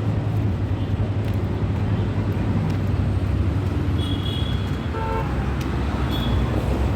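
Steady road-traffic rumble from passing vehicles, with short horn beeps about four and five seconds in.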